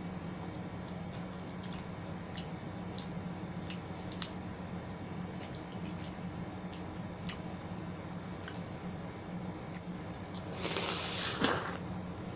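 Close-miked eating sounds: faint wet clicks and smacks of chewing scattered through, over a steady low hum. Near the end comes a louder burst of noise lasting about a second.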